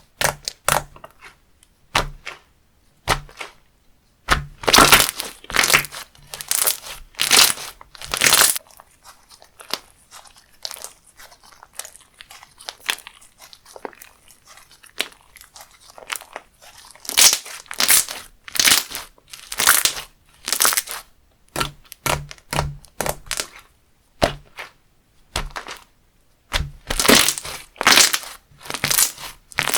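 Slime being squeezed and pressed by hand, giving bursts of crackling, crunchy pops and clicks, with a quieter patch between them.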